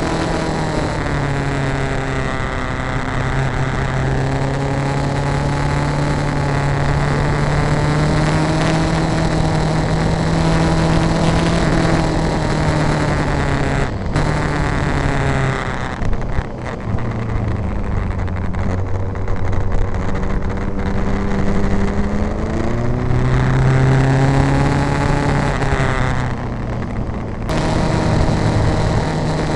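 A vehicle engine running under way, its pitch slowly rising and falling as it speeds up and eases off, with a few abrupt breaks in the sound.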